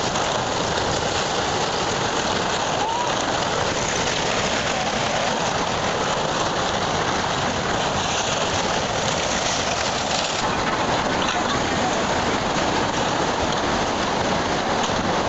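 Steady, loud rushing of water, a dense unbroken wash of noise like heavy rain or raging floodwater.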